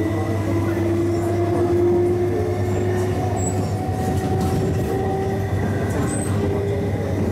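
MLR electric multiple unit under way, its traction motor whine rising slowly in pitch as the train gathers speed, over a steady low hum and rail running noise.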